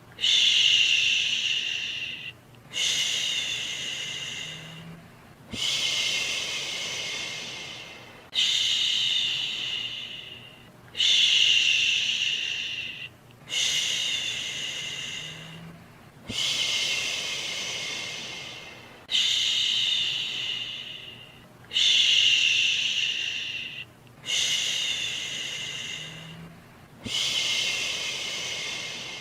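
A soothing "shhh" shushing sound, repeated about every two and a half to three seconds. Each shush starts suddenly and fades away before the next one begins.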